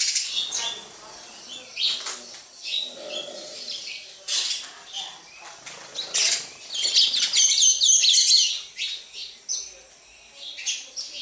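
Sparrows chirping repeatedly in quick, high notes, thickening into a dense burst of chirps a little past the middle, with a few brief wing flutters.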